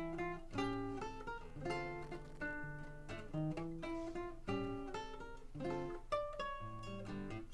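Solo guitar playing an instrumental introduction in D minor: a steady run of plucked notes over low bass notes.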